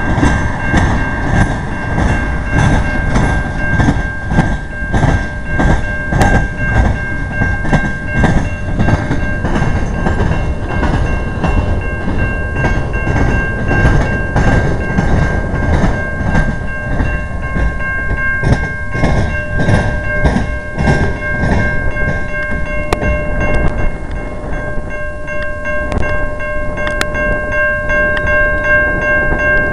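Freight train of tank cars and covered hoppers rolling past close by: a loud rumble with repeated clacking of wheels over rail joints, and a steady high-pitched tone held over it.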